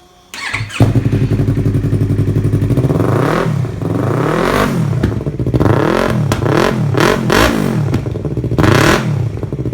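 Yamaha R3/R25 parallel-twin motorcycle engine starting up about half a second in and idling, then revved several times in quick rises and falls before settling back to idle. It is breathing through a new full exhaust that replaces the stock header and heavy catalytic converter.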